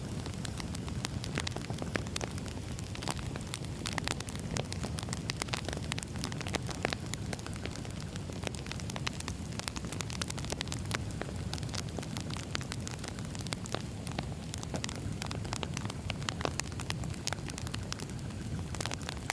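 Campfire crackling: a steady low rumble of burning wood with many quick, irregular pops and snaps.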